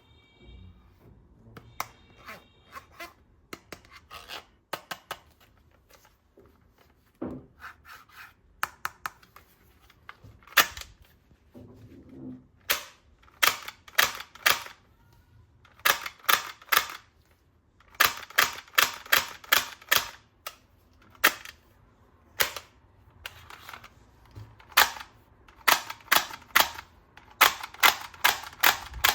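Sharp plastic clicks and snaps from toy guns being handled: single clicks at first, then quick runs of several a second, louder toward the end.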